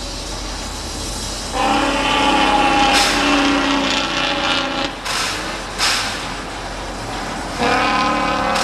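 Steam locomotive whistle blowing two long blasts of steady pitch, the second starting near the end, over the steady rumble of the passenger train rolling. A few short, sharp noises fall between the blasts.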